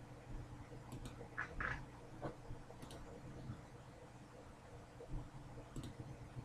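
Faint handling noises of a trading card being prepared: soft clicks and rustles, with a couple of brief squeaks about one and a half seconds in.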